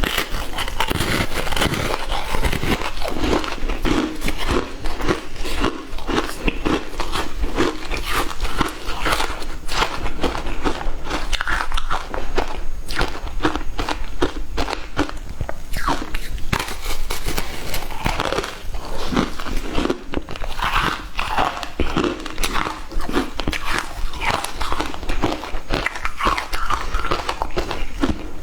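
Frozen matcha ice cubes being bitten and chewed, a dense run of sharp, irregular crunches and cracks, loud and close.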